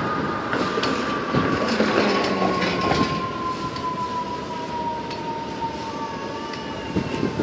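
Fire truck siren holding one long tone that slowly falls in pitch, over street traffic noise.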